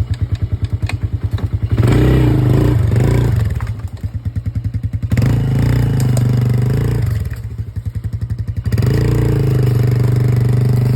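Polaris quad bike engine alternating between a pulsing idle and short spells of throttle as the quad creeps along. The throttle is held about three times, each for a second or two.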